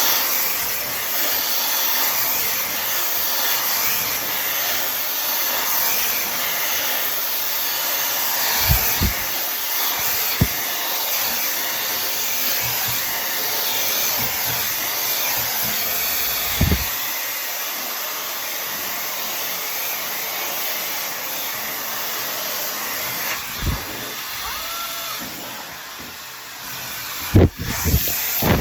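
Tymo Air Hype hair dryer running steadily, a continuous rush of blown air, with a few short low bumps scattered through it and two louder ones near the end.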